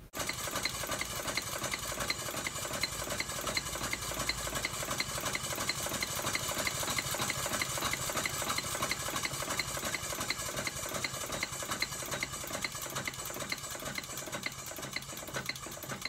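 Accucraft 2-4-0 narrow-gauge live steam locomotive running on compressed air with its wheels off the ground: the cylinders exhaust in a quick, steady rhythm of beats as the motion turns.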